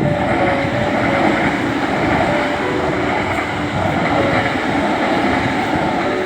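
Kintetsu limited express train passing close by at speed: a loud, steady rush of wheels on rail and running noise that begins to fade near the end.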